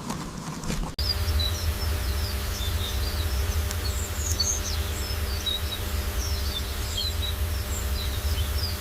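Small birds chirping in many short, high calls, beginning after an abrupt cut about a second in, over a steady low rumble with a faint hum.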